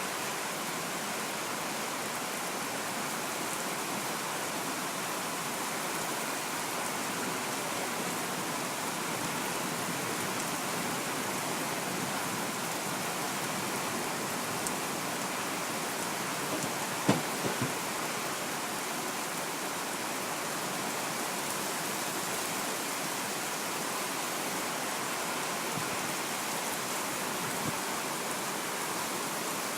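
Heavy rain falling steadily as a continuous hiss, with a few brief knocks a little past halfway through.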